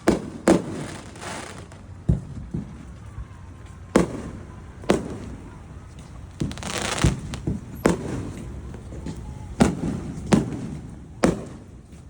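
Fireworks going off in an irregular series of sharp bangs, about a dozen over the stretch, with hissing crackle between some of them.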